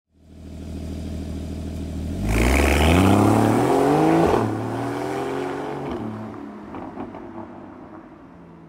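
Porsche 981 Cayman flat-six through a SOUL Performance valved exhaust, running steadily and then accelerating hard about two seconds in. The pitch climbs, drops once as at a gear change, and climbs again, and then the sound fades away.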